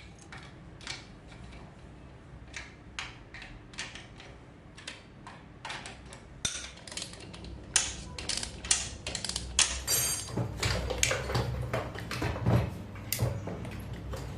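Hand tools and metal engine parts clicking and knocking in an irregular string of light impacts. The impacts come more often in the second half and are busiest near the end.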